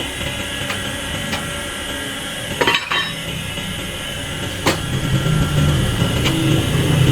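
Metal parts being knocked and clinked a few times in a workshop, over a steady mechanical hum that grows louder near the end.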